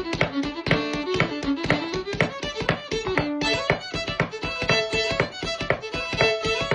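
Fiddle playing a quick tune in the Métis fiddling style, a fast run of bowed notes.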